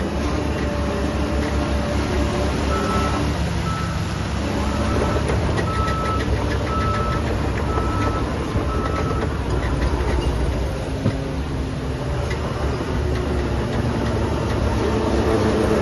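Diesel engine of heavy construction machinery running steadily. A reversing alarm beeps about once a second, seven times, in the middle of the stretch, as a machine backs up.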